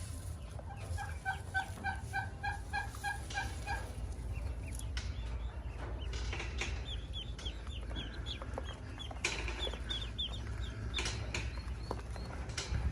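Ducklings peeping: many short, high, downward-sliding peeps, about three a second, through the second half. In the first few seconds a run of about a dozen lower clucking notes repeats evenly, about four a second, over a steady low rumble.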